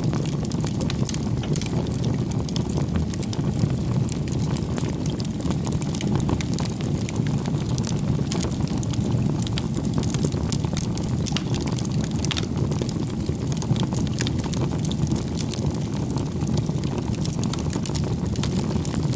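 Bonfire burning: a steady low rushing noise of the flames with many small, irregular crackles and pops.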